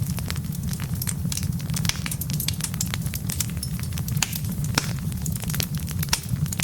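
Wood fire of burning logs crackling: many sharp, irregular pops and snaps over a steady low rumble of the flames.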